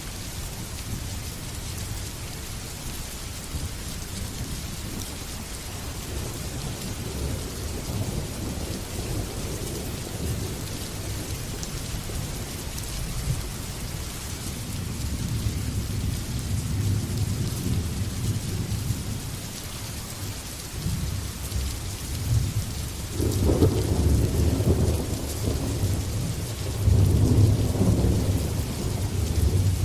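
Steady rain with rolling thunder; the rumble builds through the second half, with the loudest rolls about two-thirds of the way in and again near the end.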